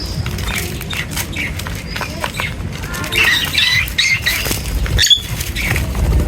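Birds chirping and squawking, with a busy run of short calls about three to four and a half seconds in, over scattered clicks and a low rumble.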